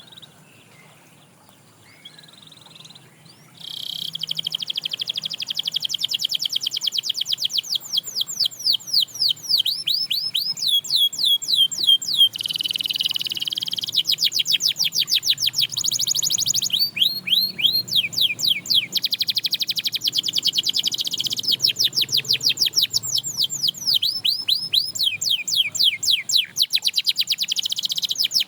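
Canary singing a long, continuous song of fast trills and rolls made of quickly repeated notes, changing from one phrase to the next every second or two. It starts about three and a half seconds in, after a few faint chirps.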